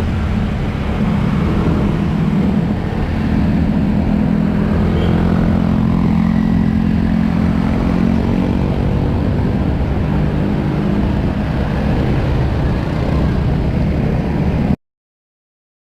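Honda Click scooter engine running with wind and road noise while riding: a steady drone that cuts off abruptly about a second before the end.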